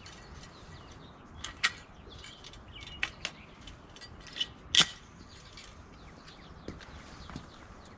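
Several short, sharp clicks and knocks at irregular intervals, from pavers and a tube of construction adhesive being handled while the pavers are glued back into the patio. The loudest knock comes a little before the middle, and a couple of fainter ones come near the end.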